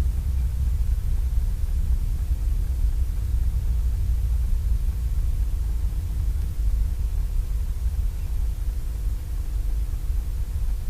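North American T-6's Pratt & Whitney R-1340 radial engine running at low power on the ground after landing, a steady low rumble with a faint even hum above it, heard from the cockpit.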